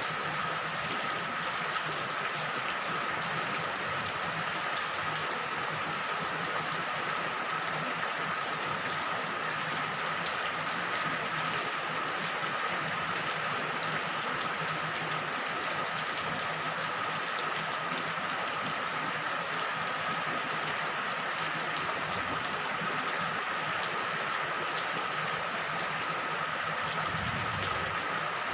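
Steady rain falling, an even hiss with a faint steady tone running through it. A low rumble of thunder begins to build near the end.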